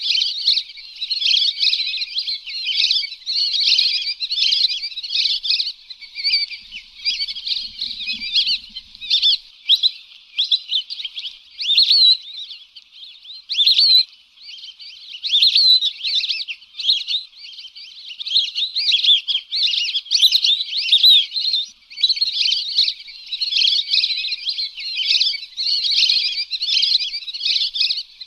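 A flock of lesser whistling ducks calling: a dense, continuous chatter of high, thin, overlapping whistles.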